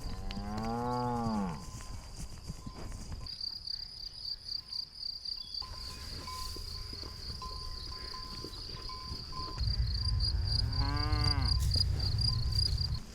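A cow mooing twice, two long calls that rise and fall in pitch, one at the start and one about ten seconds later. Insects trill steadily in high, rapid pulses throughout.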